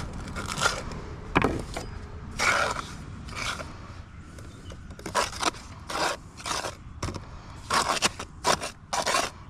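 Tuck pointer scraping mortar into and across brick joints in a string of short, irregular strokes.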